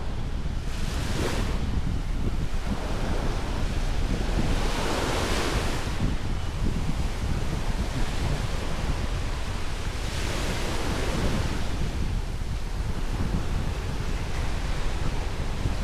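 Ocean waves breaking and washing up the shore, swelling into a hiss three times, about every four to five seconds. Under them runs a steady low rumble of wind on the microphone.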